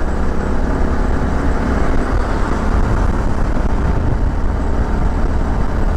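Suzuki V-Strom 650 XT motorcycle on the move, its V-twin engine running steadily under a constant rush of wind and road noise.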